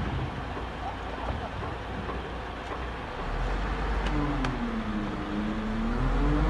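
Heavy diesel engine of quarry machinery running, growing louder about halfway through, its pitch sagging and then climbing again.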